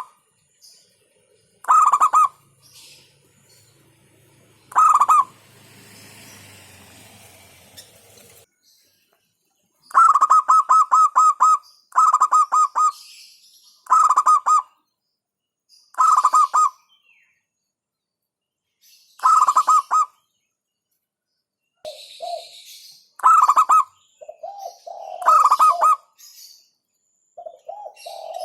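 Zebra dove (perkutut) cooing: about a dozen short bursts of quick staccato notes, each lasting about a second, with pauses between them and a longer gap a few seconds in. Some lower-pitched notes come in the last few seconds.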